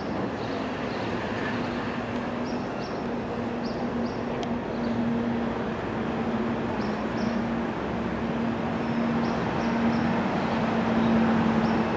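Distant NJ Transit commuter train approaching: a steady low engine hum that grows slowly louder over a wide rumbling hiss, with short high chirps scattered throughout.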